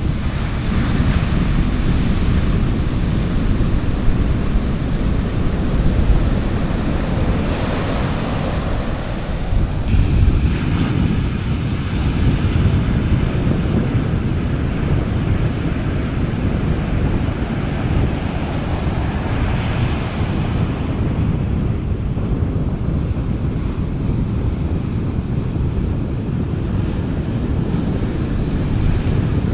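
Gentle sea waves breaking and washing on a beach, in surges every few seconds, with wind rumbling on the microphone.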